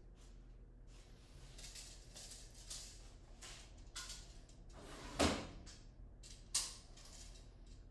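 Rustling and scraping of workshop handling noise over a steady low hum. A loud thump comes about five seconds in and a sharper clack about a second and a half later.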